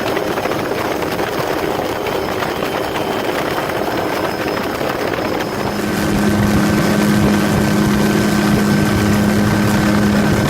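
Helicopter running steadily, a loud rushing noise with a steady hum that grows louder about six seconds in.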